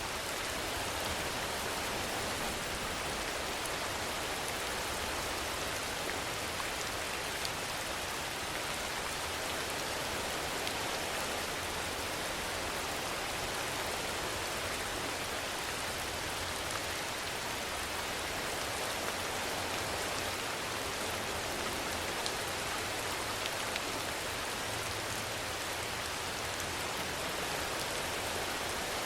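Steady rainfall: an even hiss with no rise or fall, and now and then a faint tick of a single drop.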